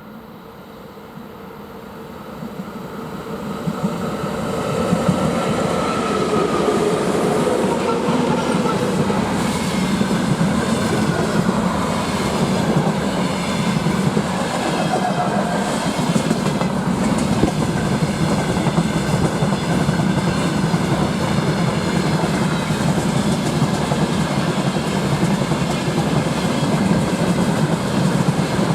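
Freight train approaching and passing at speed, a tone falling in pitch as the front goes by about five seconds in, then a long run of wagons rolling past with a steady clickety-clack of wheels over rail joints.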